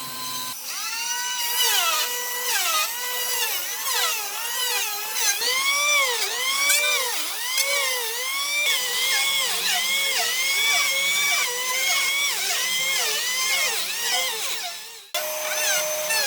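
A handheld power tool works burl wood, its pitch dipping and recovering about twice a second as it bites in and eases off. The sound changes abruptly about nine and fifteen seconds in.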